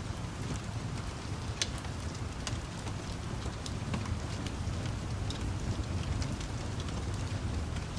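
Steady rain with a low, continuous rumble underneath. Scattered sharp pops and crackles of a wood fire sit on top of it.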